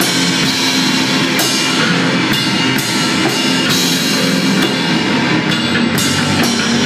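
Rock band playing a loud psychedelic freakout jam: a drum kit with crashing cymbals about once a second over a dense, sustained wall of instruments.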